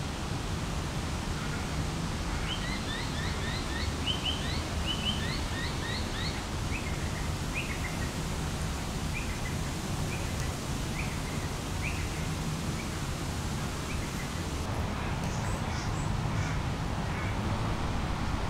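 Small birds chirping: a rapid run of short rising notes, then sparser chirps and a few thinner, higher ones near the end, over a steady low background noise.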